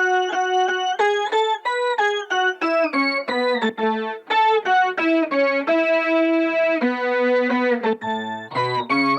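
Guitar played through a Boss SY-1 synthesizer pedal on an organ patch, giving a keyboard-like tone. It plays a melodic line of single notes, each starting cleanly and changing pitch two to four times a second.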